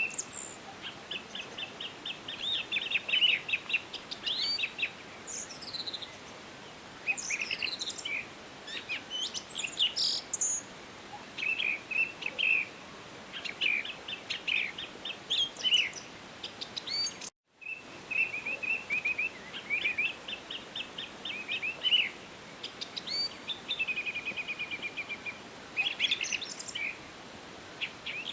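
Several songbirds singing: repeated quick trills of short, high notes a second or so long, mixed with higher sliding calls, over a steady faint hiss. The sound drops out completely for a split second about two-thirds of the way through.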